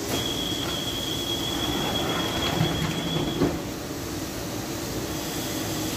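Electric suburban train running along the platform, a steady rumble of wheels and running gear with a high, steady tone through the first three and a half seconds.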